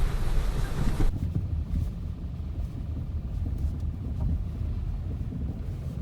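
Lada Vesta Cross driving over a bumpy road: a steady low rumble of tyres and suspension, with a brighter hiss of wind and road noise that cuts off suddenly about a second in. This is a drive-over-bumps check for the suspension knock on a newly replaced right shock absorber.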